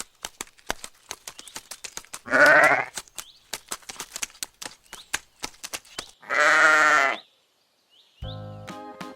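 Sheep bleating twice, each bleat under a second long with a wavering pitch, over a run of light clicks. Music starts near the end.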